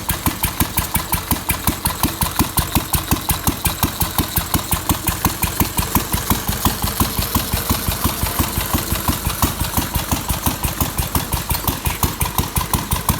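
Lister D single-cylinder stationary engine running steadily, its exhaust beats coming evenly at about five a second.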